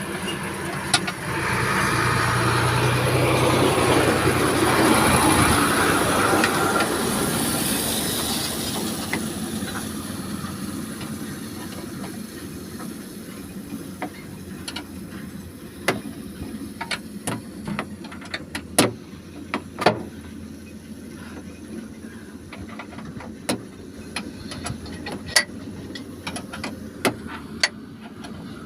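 A loud mechanical rushing noise swells over the first few seconds and fades away. It is followed by scattered sharp clicks and knocks of hands and tools at work on the Volvo EC210 excavator's ECU.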